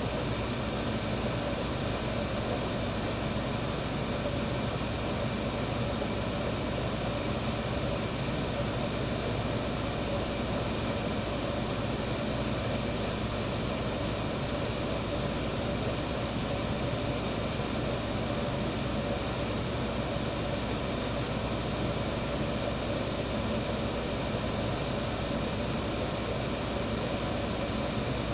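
Window air conditioner running, cooling, with its fan blowing: a steady rush of air with a low hum underneath that doesn't change.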